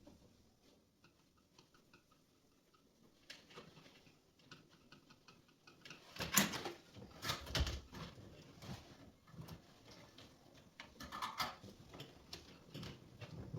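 Irregular clicks and knocks of objects being handled, busiest from about six to eight seconds in and again near eleven seconds.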